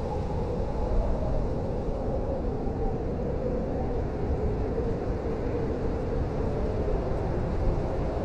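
Blizzard wind blowing steadily: a deep rumble with a moaning tone that wavers up and down in pitch.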